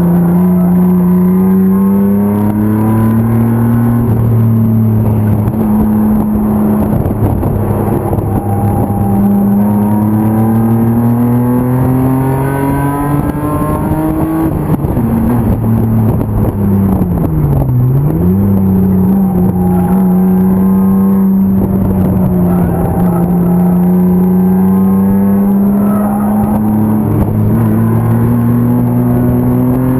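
BMW E36 race car's M50 inline-six engine at race pace, loud and continuous. The revs climb through long pulls, fall sharply about halfway through, dip briefly and pick back up, then rise steadily again toward the end.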